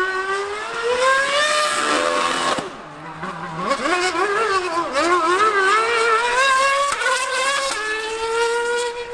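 High-revving racing engine at full throttle, its pitch climbing and dropping with gear changes, briefly fainter about three seconds in, then rising again with quick up-and-down revs.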